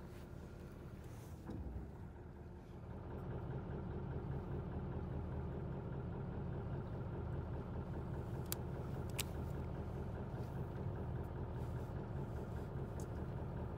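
A fishing boat's engine running steadily, growing louder about three seconds in, with two sharp clicks about halfway through.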